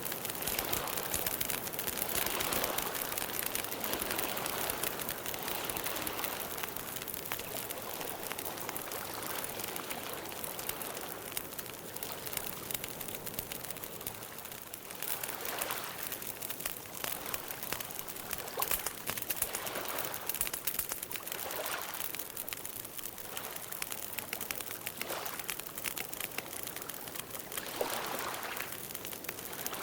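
Campfire crackling steadily, with many small pops over a constant hiss.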